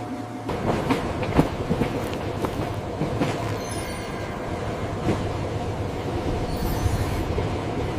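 Train running on the rails, wheels clattering over the track joints, with two short high-pitched wheel squeals, one around the middle and one near the end.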